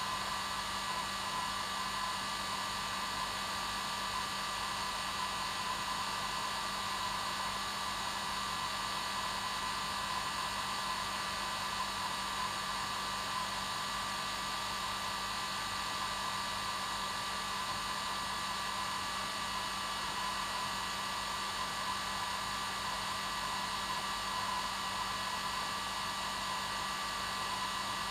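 Hair dryer running steadily, a constant rushing blow with a steady motor hum and whine under it, used as white noise for a baby's sleep.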